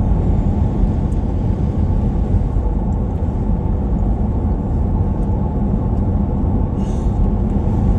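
Steady road and engine rumble of a vehicle driving on a snowy highway, heard from inside the cabin.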